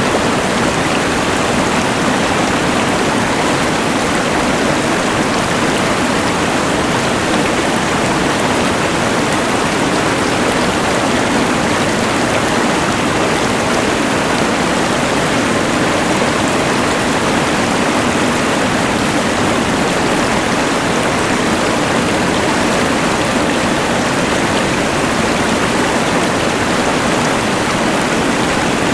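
A rushing mountain river blended with the hiss of a LectroFan white noise machine, forming one constant, unchanging wash of noise.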